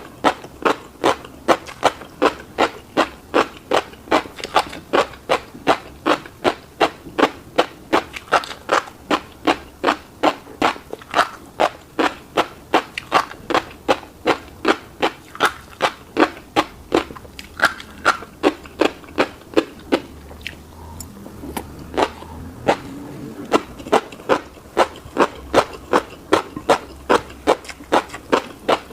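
Close-miked chewing of a mouthful of fish-roe and rice, in a steady rhythm of about two chews a second, with a brief pause about two-thirds of the way through before the chewing picks up again.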